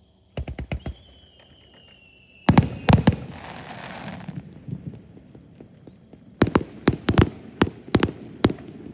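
Aerial fireworks bursting in quick clusters of sharp bangs. The loudest bangs, about two and a half seconds in, are followed by a second or so of crackling hiss. Another run of about eight bangs comes near the end.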